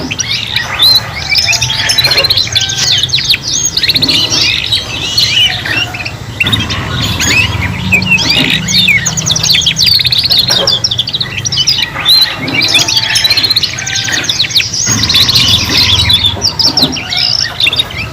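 Domestic canaries, young birds learning song together, singing in a dense unbroken stream of rapid trills and chirps.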